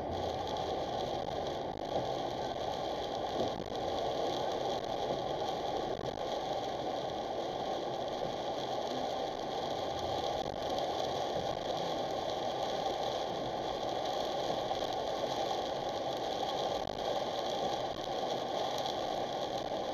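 Steady road noise inside a car driving on a rain-soaked road in a typhoon, picked up by the dashcam's microphone.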